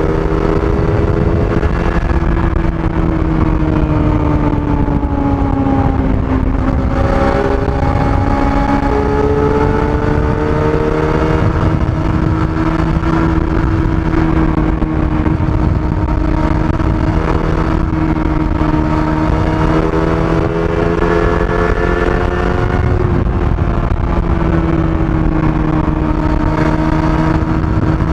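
Kawasaki ZX-25R's 250 cc inline-four engine on its stock exhaust, running at a fairly steady pitch while riding. The pitch dips about six seconds in, then rises and falls gently.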